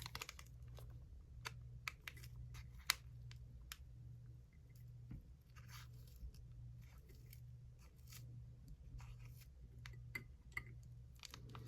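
Faint scattered clicks and scratches of small plastic miniature pieces being handled and fill being scooped with a tiny shovel, over a low steady hum.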